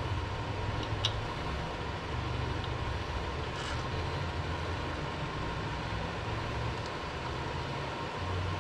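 Steady low mechanical hum of running shop equipment, with a couple of faint light metallic clicks as small parts are handled.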